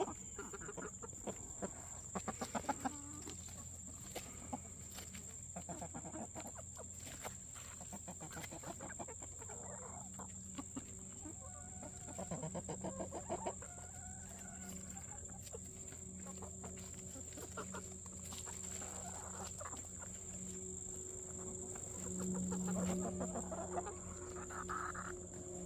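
Backyard chickens clucking as they peck at a squash, with scattered short pecking taps among the calls.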